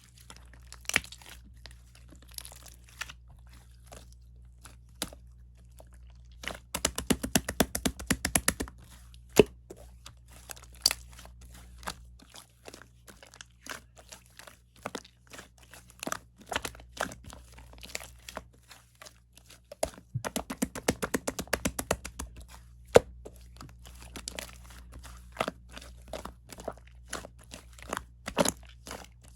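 Clear slime squished and pressed by hand, giving sharp crackling clicks and pops. The clicks come in two dense rapid runs, about a quarter of the way in and again about two-thirds of the way in.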